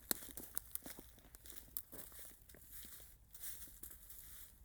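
Irregular crackling and crunching of dry leaves and brush, a quick string of small clicks with a few sharper snaps.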